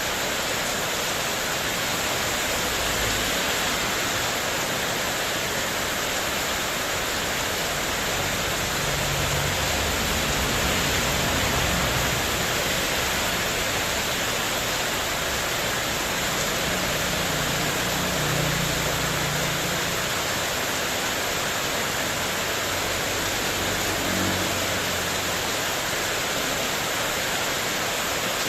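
Heavy rain pouring onto a corrugated metal (spandek) porch roof, a steady dense hiss, with a low rumble swelling up in the middle and fading again.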